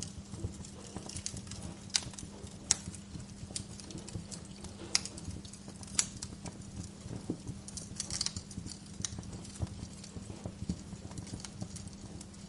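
Wood fire crackling in a fireplace: irregular sharp pops and snaps, a few louder ones standing out, over a steady low hum.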